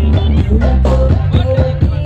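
Loud music with a sung melody over heavy, booming bass, played through a large sound-system speaker rig.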